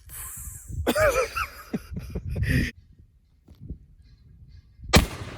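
A man's voice imitating the misfire of a percussion-cap revolver with a hissing "pssh" and other wordless vocal sounds. About five seconds in comes a single sharp gunshot crack.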